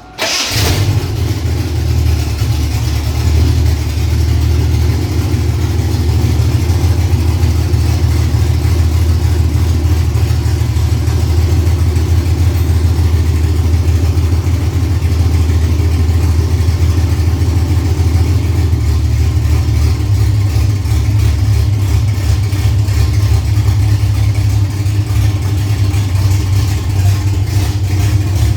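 Ford Cortina's freshly built 3-litre V6, on its first start-up, idling steadily on an aftermarket performance camshaft. The sound cuts in abruptly at the start.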